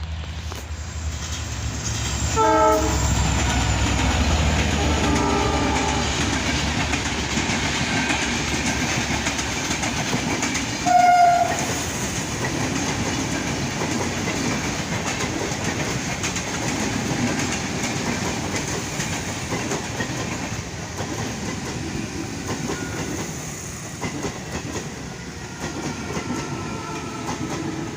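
An Indian Railways train runs past with a steady rumble of wheels on the rails. Its horn sounds briefly about two and a half seconds in, fainter again around five seconds, and gives a short loud blast about eleven seconds in.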